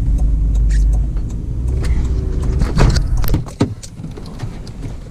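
Car running with a loud low rumble that drops away about three and a half seconds in, just after a few sharp clicks and knocks.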